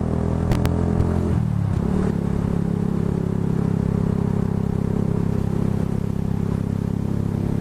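A vehicle engine idling steadily, its pitch sliding down about a second in before it settles, with two brief clicks near the start.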